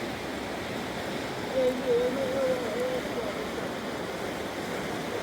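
Steady rush of a fast river. About a second and a half in, a short wavering voice-like tone sounds over it for about a second and a half.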